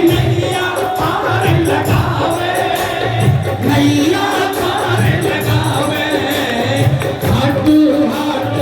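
Live Hindu devotional bhajan music: a steady drum beat with a melodic line over it and voices singing along.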